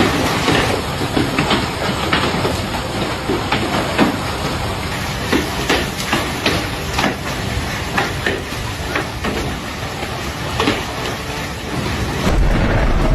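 Hailstorm: a dense clatter of hailstones pelting down, with many separate sharp hits standing out. Near the end it gives way to a steady low rumble.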